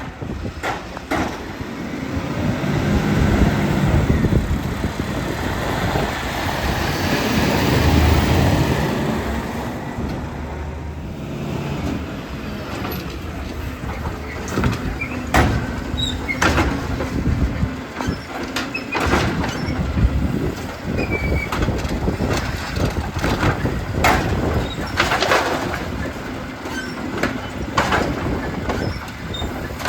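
Glass-collection garbage truck working, its engine running steadily. A loud rushing noise swells for several seconds, then many sharp clanks and knocks follow at irregular intervals.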